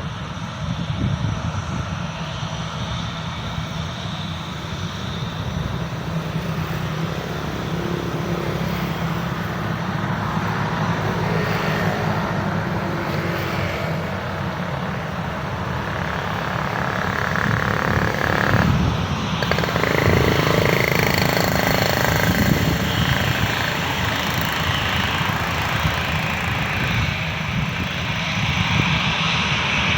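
Jet engines of an Airbus A320-214, the CFM56-5B type, running at an airport. It is a broad, even noise over a heavy low rumble that gradually grows louder, stepping up about two-thirds of the way through and again near the end.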